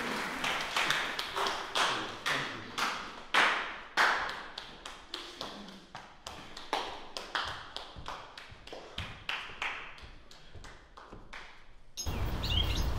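Audience applause thinning into scattered, irregular hand claps that grow fainter and sparser. It cuts off abruptly near the end to a steady outdoor hiss.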